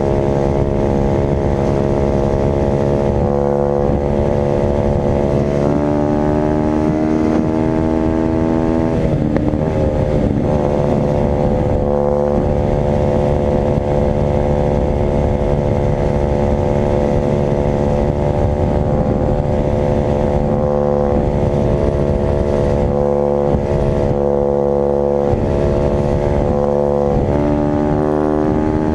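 Dirt bike engine running at steady revs, its pitch stepping up a little way in, dropping sharply about a third of the way through, then climbing again near the end.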